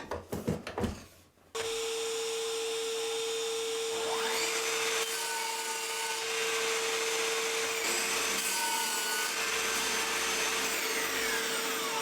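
A few short knocks, then a table saw starts up suddenly about a second and a half in and runs steadily with a constant whine while crosscutting MDF pieces to length.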